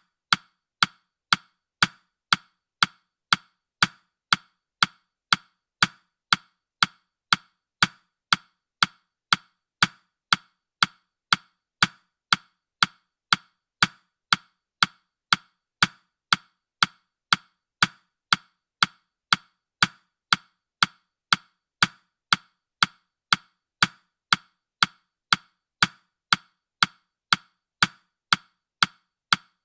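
Countdown timer's ticking sound effect: short sharp clicks, evenly spaced at about two a second.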